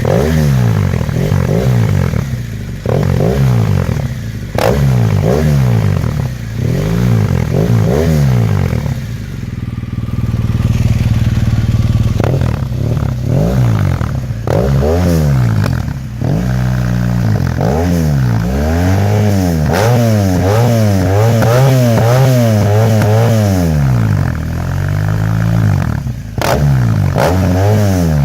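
2015 BMW R1200RT's boxer twin, breathing through a GPR full exhaust with a cat-delete header and one baffle fitted, revved over and over, each blip rising and falling back toward idle. In the second half the blips come faster, one after another.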